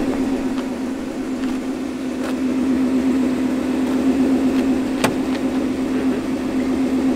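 Car engine idling with a steady, even hum, and a single sharp click about five seconds in.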